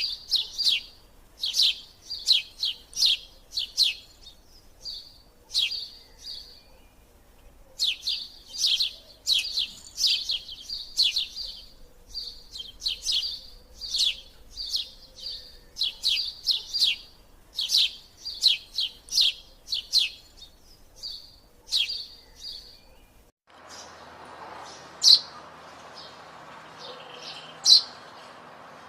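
Eurasian tree sparrows chirping: a busy run of short, high chirps in quick succession, with a brief pause about seven seconds in. About twenty-three seconds in it cuts to a recording with a steady background hiss and only a few scattered chirps.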